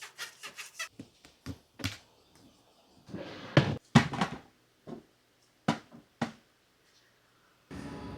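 Small household handling sounds: scattered light clicks and knocks, with a louder rustling stretch a little past a third of the way in. Near the end a steady background noise starts abruptly.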